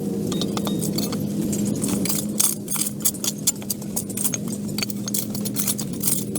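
A steady machine hum with many quick, irregular metallic clinks and scrapes over it.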